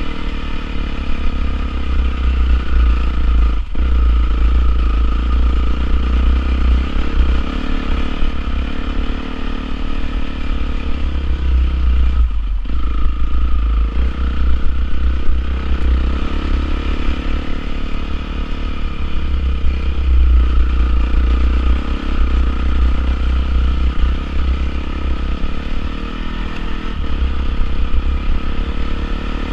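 Honda CRF450R's single-cylinder four-stroke engine running hard under load. The engine sound is continuous, with two brief drops in sound about 4 and 12 seconds in.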